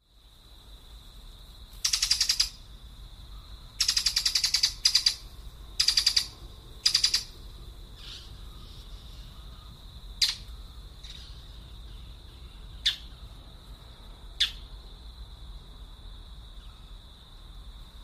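Birds calling: five harsh, raspy calls in quick succession, then three short, sharp single notes a few seconds apart, over a steady high-pitched background tone.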